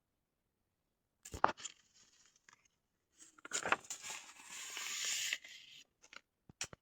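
A few sharp clicks, then a rough tearing noise lasting about two and a half seconds, and two more clicks near the end.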